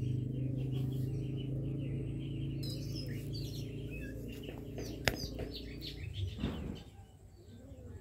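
Small birds chirping and twittering over a steady low hum, with a single sharp click about five seconds in; the hum falls away near the end.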